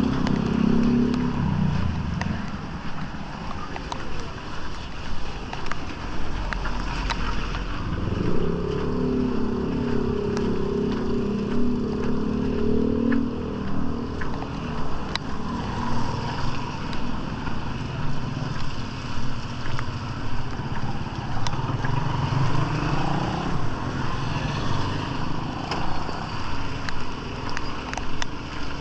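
Motor vehicle traffic: engines of passing cars and motorcycles rising and fading, over a steady background hiss, with scattered small clicks.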